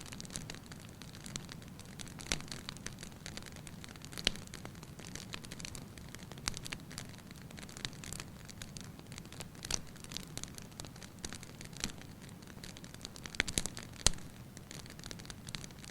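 Wood fire burning in a fireplace, crackling with irregular sharp pops over a low, steady rush of flame. The loudest pops come about four seconds in and near the end.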